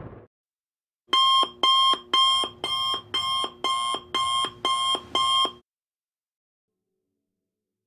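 Electronic alarm beeping nine times, about two beeps a second, each beep a buzzy pitched tone, then stopping.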